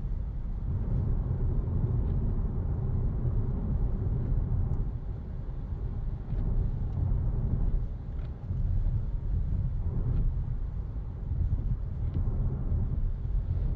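Low, steady rumble inside the cabin of an Opel Insignia B, with a few faint light ticks.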